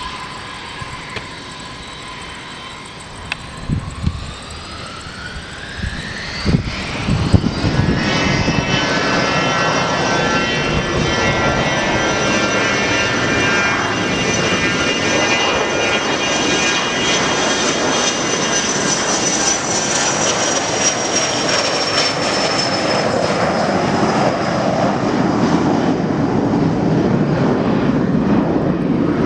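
Jet aircraft engines spooling up: a rising turbine whine climbs over about five seconds, then the engines run loud at high power with a steady whine, easing slightly near the end.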